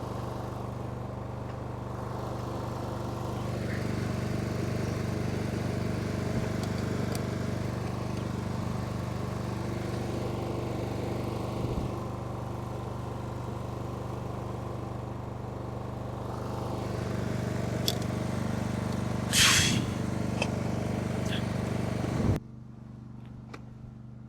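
Small lawn mower engine running steadily at idle. About three-quarters of the way through comes a short, loud, hissing burst, and near the end the sound drops off abruptly.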